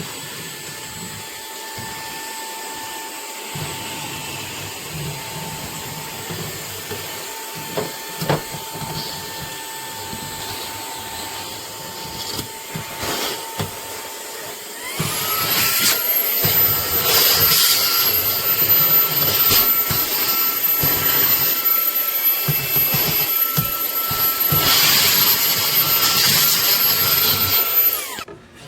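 Fanttik Slim V8 Apex cordless handheld vacuum running with a steady motor whine. About halfway through it is switched up to a higher, louder speed, then it is switched off and winds down near the end. A few brief clicks and rattles sound over it.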